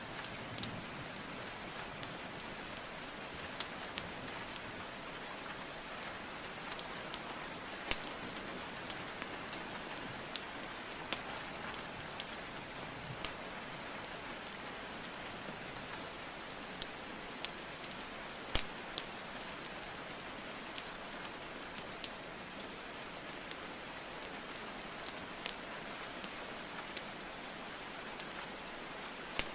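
Steady rain with irregular sharp pops and crackles of burning wood logs scattered through it, one louder pop a little past halfway through.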